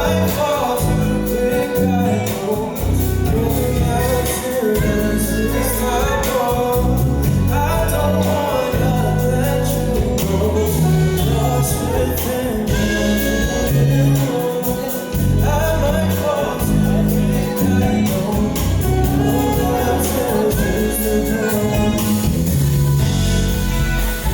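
Live R&B band performing a slow soul song: a singer's lead vocal over a full band, with bass notes and a steady drum beat.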